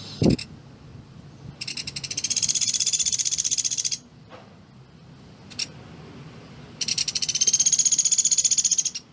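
A pelatuk beras woodpecker calling: two fast, dense rattling trills of about two and a half seconds each, high-pitched. A short sharp note with a low thump comes just after the start, and a brief note comes midway between the trills.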